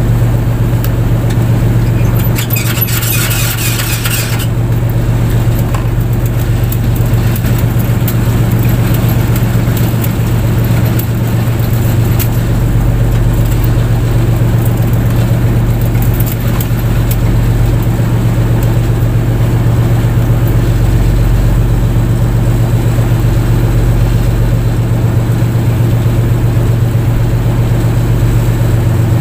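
Fishing boat's engine running at a steady low drone. About two and a half seconds in, a brief high rattle lasts about two seconds.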